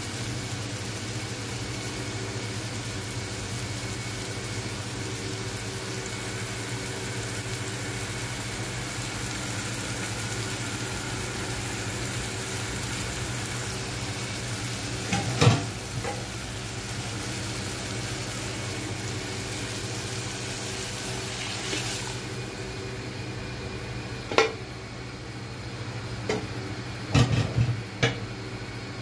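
Spinach, tomato and onion sizzling in hot oil in an aluminium pot, with a few sharp metal knocks against the pot, the loudest about halfway through and a cluster near the end. The hiss of the sizzle drops away about three-quarters of the way in.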